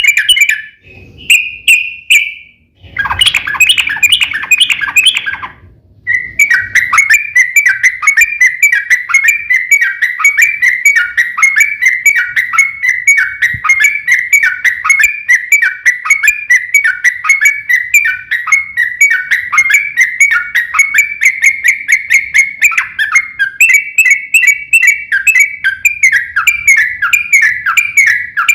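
Yellow-vented bulbul (trucukan) singing: a few short calls and a brief burst of chattering, then from about six seconds a long, fast run of repeated chirping notes, the rapid 'ropel' song used in duelling.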